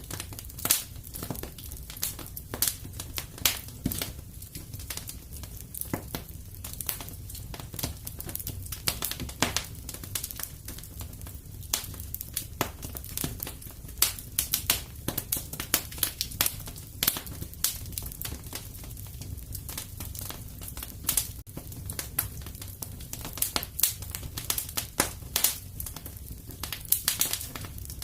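Wood fire crackling and popping: many irregular sharp snaps of varying loudness, a few louder pops standing out, over a steady low rumble of the burning fire.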